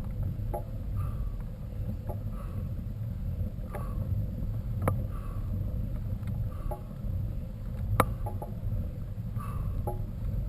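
Mountain bike being ridden: a steady low rumble with regular clicks, knocks and small creaks, about one a second, with a sharper knock about halfway through and another near the end.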